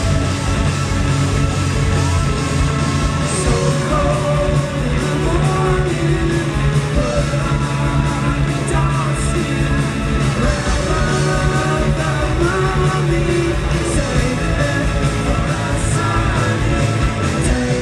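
Live indie rock band playing with a sung vocal line over guitars, bass and drums, heard as a loud, steady concert mix.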